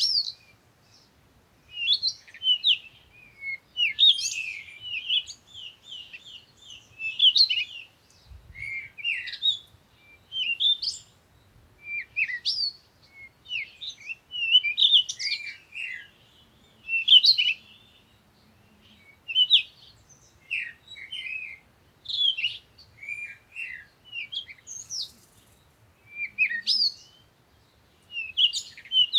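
Songbirds chirping and singing in a morning chorus: quick runs of short, high notes that come in phrases every second or two with brief pauses between.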